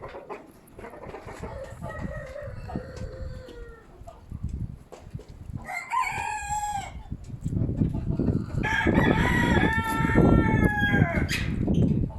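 A rooster crowing three times, the last call the longest and loudest, with strong wind rumbling on the microphone.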